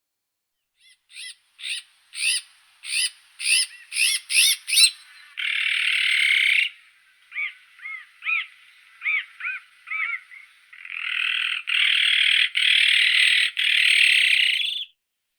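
Azure-winged magpie calling: a run of short rising-and-falling notes that come faster and louder over about four seconds, a harsh rasping call, more short notes, then a long harsh rasping call that lasts about four seconds near the end.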